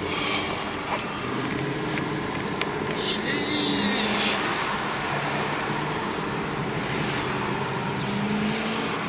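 Ford Mustang GT's V8, fitted with headers, an X-pipe and the factory mufflers, running at a steady light cruise with a low, even drone and road noise.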